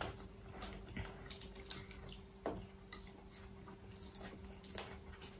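Quiet eating sounds: soft chewing and mouth smacks, with a few scattered short clicks as food is pulled apart by hand.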